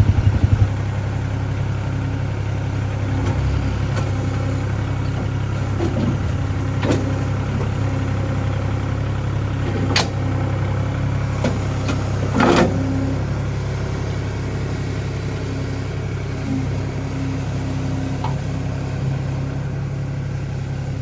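Kubota L3560 tractor's diesel engine idling steadily, with a handful of sharp metallic knocks and clanks over the top.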